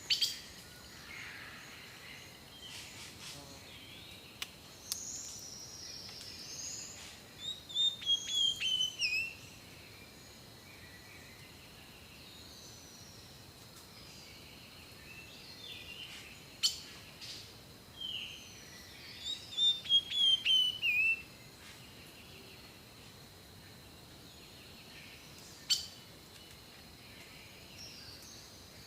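Wild birdsong: a songbird twice sings a quick phrase of several falling high notes, about eleven seconds apart, with scattered shorter chirps from other birds in between. A faint, steady high tone runs underneath.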